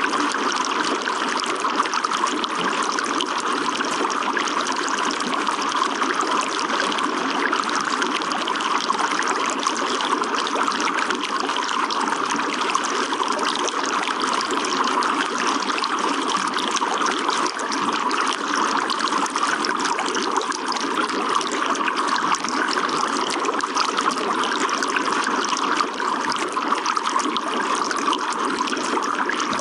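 Running water trickling and splashing steadily, an even, unbroken wash of sound with no pauses.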